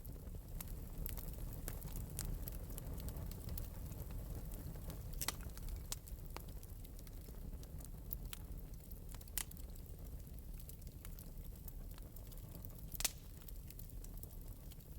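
Wood fire burning in an open metal fireplace: a steady low rumble with scattered sharp crackles and pops, the loudest pop about thirteen seconds in.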